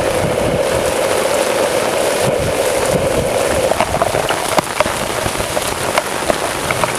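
Heavy rain falling steadily, with loud single drops ticking sharply from about halfway through.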